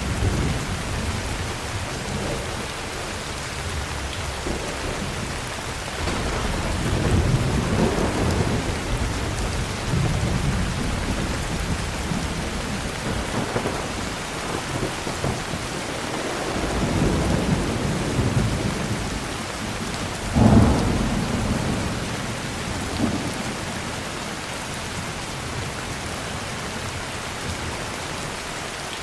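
Heavy rain falling steadily, with repeated rolls of thunder rumbling low. The loudest, sharpest thunderclap comes about two-thirds of the way in. The rumbling dies away near the end while the rain goes on.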